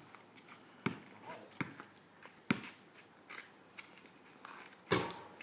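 Basketball bouncing on pavement: a few sharp, separate bounces about a second apart, with a louder sound near the end.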